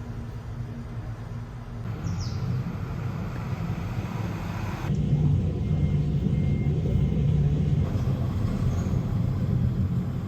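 Car road and engine noise, a steady low rumble, in short clips that change abruptly a few times and get louder after about two and five seconds.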